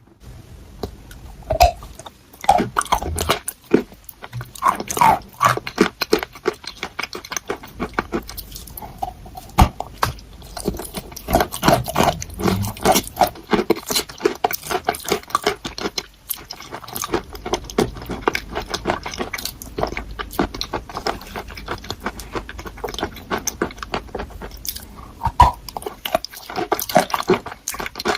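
Crunchy chalk being bitten and chewed close to the microphone, a dense run of irregular crunches and crackles.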